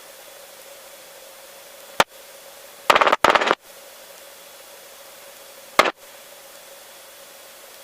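Aircraft radio and intercom hiss with a faint steady hum, broken by short loud bursts of radio static: a sharp click about two seconds in, a crackling double burst lasting under a second about three seconds in, and another click near the end.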